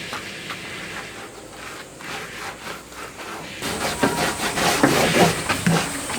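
Light scraping and scattered knocks, then from about three and a half seconds in a louder stretch of farmyard poultry calling, turkeys among them.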